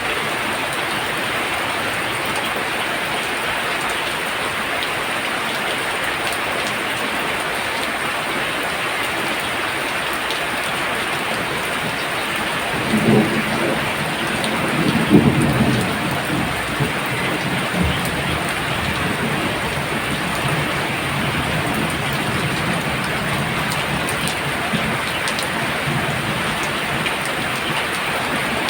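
Heavy rain pouring down in a steady hiss, with a low roll of thunder rising about halfway through and fading over several seconds.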